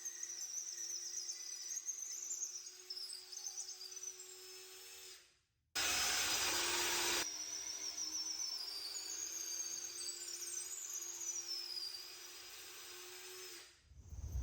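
Electric drill boring into the wood of a bench leg, in short clips separated by abrupt cuts. A quieter steady motor whine alternates with a louder burst of drilling about six seconds in.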